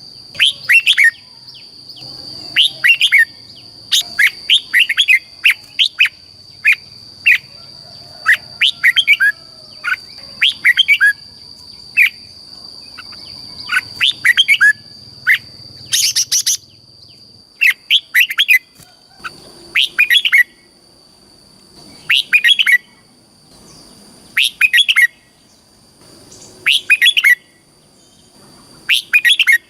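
Red-whiskered bulbul singing short, bright chirping song phrases, repeated one after another about every one to two seconds. A steady high-pitched tone runs behind the song for the first half.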